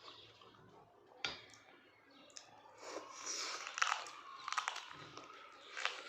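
A person chewing meat close to the microphone, with crunches and wet clicks. There is one click about a second in, and from about halfway through the chewing is louder and busier.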